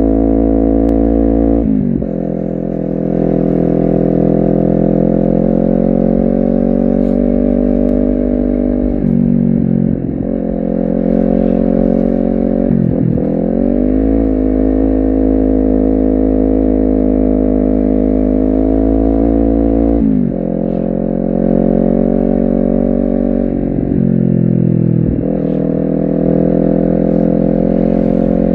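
Honda CBR250RR motorcycle engine and exhaust under way, holding a steady pitch between gear changes. About five times the note dips suddenly and then climbs back as the rider shifts and opens the throttle again.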